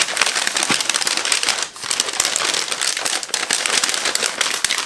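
A bag crinkling and rustling, with quick, dense crackles, as a rubbery prop piece is handled and slid back into it; the crinkling pauses briefly a little under two seconds in.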